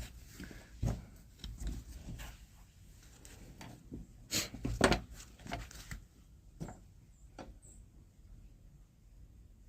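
Handling noise close to the microphone, a scatter of knocks and rubs with two louder knocks about four and five seconds in, as a camera on a tripod is moved and set.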